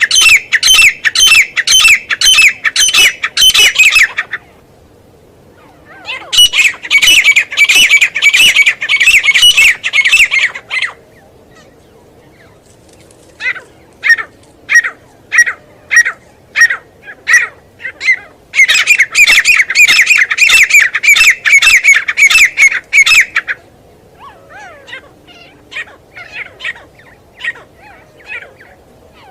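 Teetar (francolin) calling: loud, harsh notes repeated about three times a second in runs of several seconds, broken by short pauses, with slower single notes in one stretch and fainter calls near the end.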